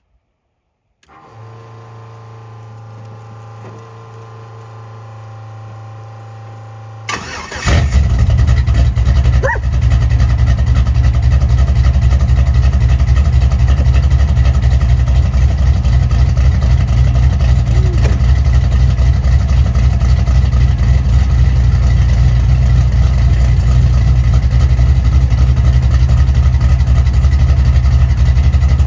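A steady hum for several seconds, then the swapped iron-block 5.3 L LS V8 in a 1997 Chevy S10 cranks briefly and fires about seven seconds in. It then runs loud and steady at idle.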